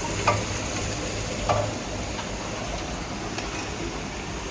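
Small tube ice machine running: a steady hiss over a low hum, with a couple of sharp light knocks in the first couple of seconds and fainter ticks after.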